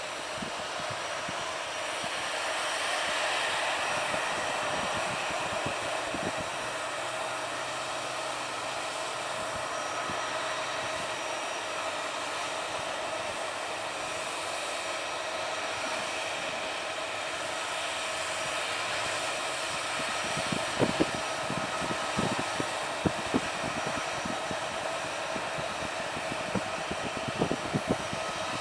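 Jet aircraft engines running steadily, a continuous rushing hiss with a steady whine. It swells slightly a few seconds in, and some light clicks come near the end.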